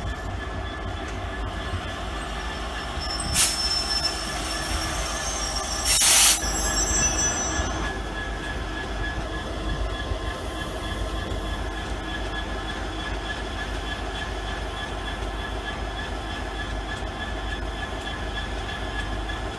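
Freight train of open box wagons behind a Class 66 diesel rolling past, with a steady low rumble and a constant high wheel squeal. Two loud bangs come about three and six seconds in.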